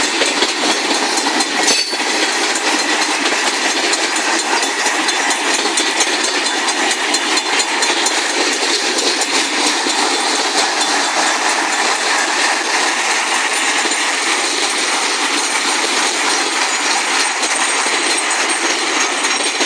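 Freight cars rolling past at a grade crossing: a steady loud rumble of steel wheels on rail, with faint clicks of wheels over rail joints and one knock about two seconds in.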